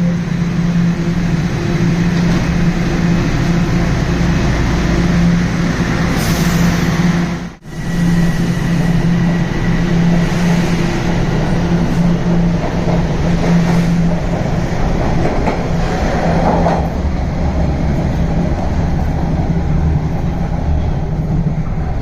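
Toronto subway Line 1 train running, with a steady low hum over rumbling rail noise. The sound drops out for a moment about seven and a half seconds in, then carries on.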